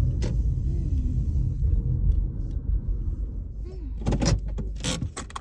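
Low rumble of a car running inside the cabin, with a few sharp knocks or clicks about four to five seconds in; the rumble drops off right at the end as the car comes to a stop.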